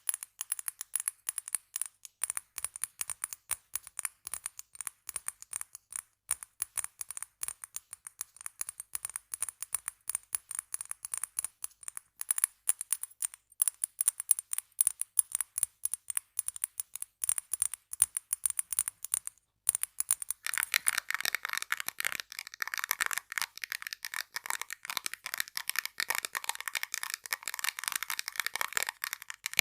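Rapid close-up tapping on small objects such as tape and glass bottles, many quick taps a second. About twenty seconds in it changes to a denser, scratchier texture.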